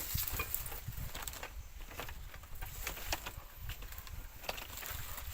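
Scattered light clicks and taps, irregularly spaced, over a low rumble.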